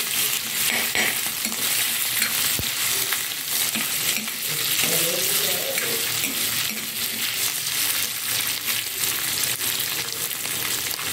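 Mashed boiled potatoes sizzling in hot oil in a metal kadhai, with a steady frying hiss and repeated scrapes of a steel ladle as they are stirred.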